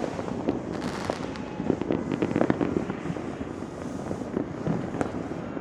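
Many fireworks and firecrackers going off at once in a dense, continuous crackle with scattered sharper bangs, loudest about two seconds in.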